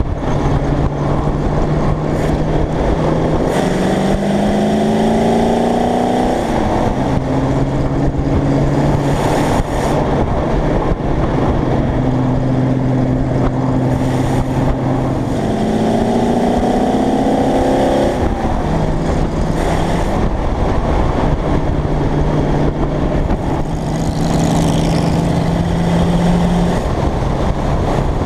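Hot rod engine with open carburetor stacks running on the road, its pitch climbing twice as it accelerates and then dropping back at each upshift, holding a steady tone between.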